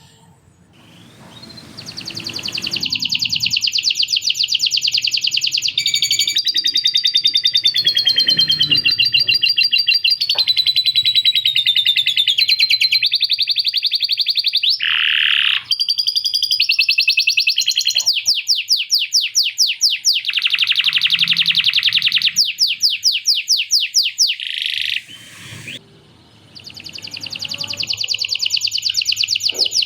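Male canary singing long, fast trilled phrases, its song filled with lovebird-style chattering 'ngekek' rattles. The song starts about a second in and runs almost without a break, with rapid rattling trills in the second half and a brief pause near the end.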